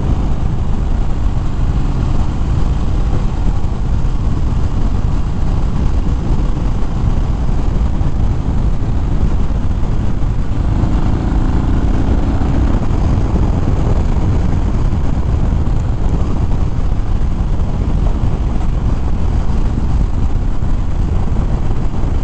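Motorcycle riding at speed, heard through a helmet microphone: steady wind rush mixed with the V-twin engine's drone. About eleven seconds in, an engine note briefly stands out more clearly for a couple of seconds.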